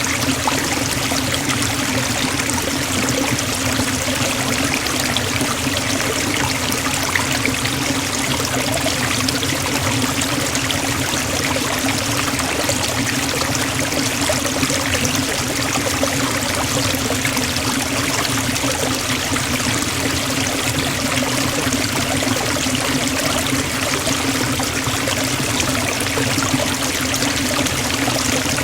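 Forest waterfall: water falling and splashing in a steady, even rush.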